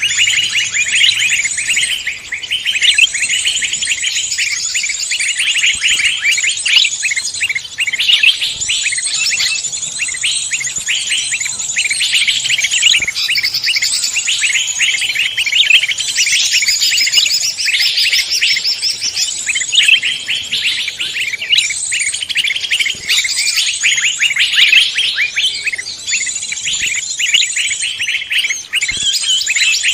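A dense chorus of many songbirds singing at once: rapid, high chirps and trills that overlap without a break.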